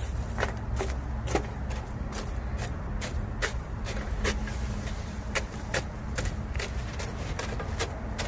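Bamboo campfire crackling: sharp, irregular pops, a few a second, over a low rumble.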